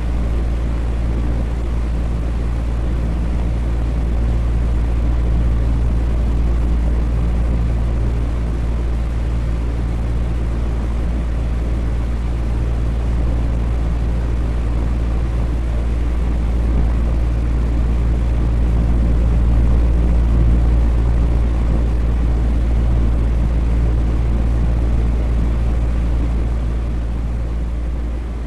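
Electric fan running steadily: an even rush of air over a deep, constant hum.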